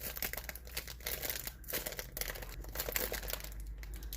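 Soft crackling and crinkling as a homemade squishy is handled and squeezed close to the microphone.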